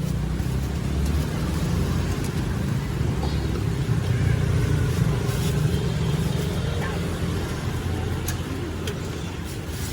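Steady low rumble of road traffic with motor vehicle engines running, swelling slightly midway, and a few sharp clicks near the end.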